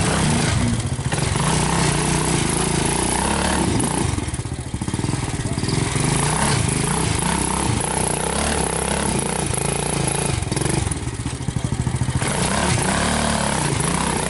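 Motor vehicle engines running with the pitch rising and falling as the throttle is worked, with a brief dip about four seconds in.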